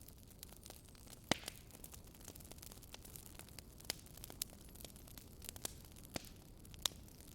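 Fireplace fire crackling: scattered sharp pops and snaps over a soft low rumble, the loudest pop about a second in.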